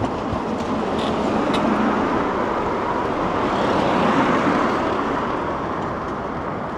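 A passing vehicle: a steady rushing noise that swells to its loudest about four seconds in, then fades.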